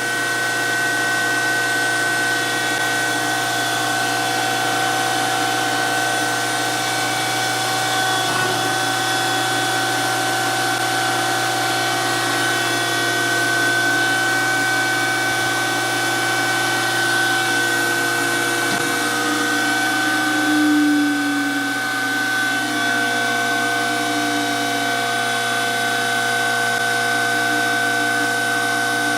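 DoAll 14-inch surface grinder running with its wheel spinning: a steady whine of several tones over a continuous hiss. A lower tone in the hum shifts slightly about two-thirds of the way through.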